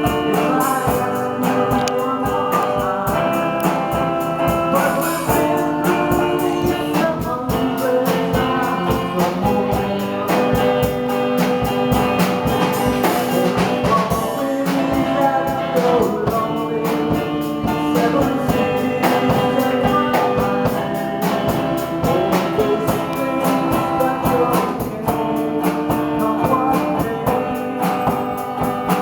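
Acoustic guitar strummed in a folk song, with voices singing along.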